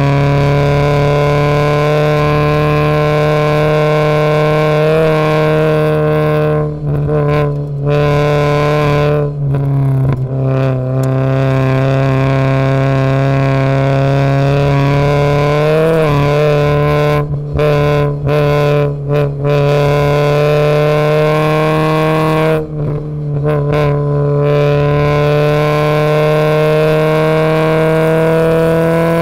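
Race car engine under hard load, heard from inside the stripped, roll-caged cabin: a steady, loud engine note that rises slowly in pitch, broken several times by brief dips where the throttle lifts or a gear changes.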